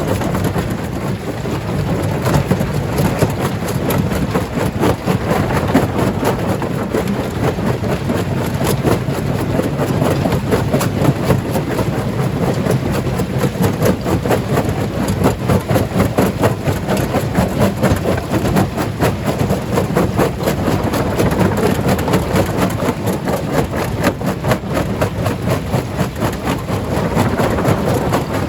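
Stone crusher running and crushing rock, a steady rumble with a dense, continuous clatter of rapid knocks.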